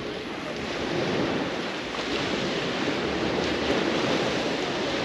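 Sea waves washing onto a beach, a steady rush of surf, with wind buffeting the microphone.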